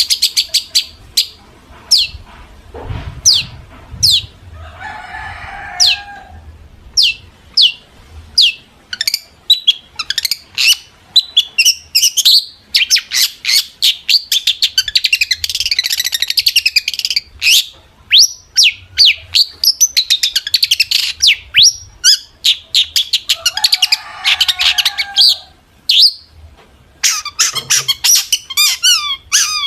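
Long-tailed shrike (cendet) singing hard: a quick run of sharp, falling whistled notes, dense chattering passages, and two harsher rasping phrases. Near the end the song turns into a fast repeated trill.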